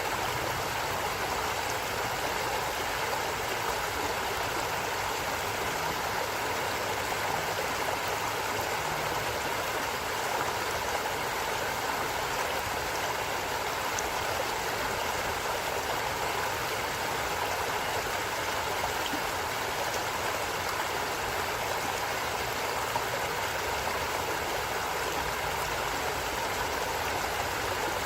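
A stream of running water rushing steadily, an even, unbroken wash of sound.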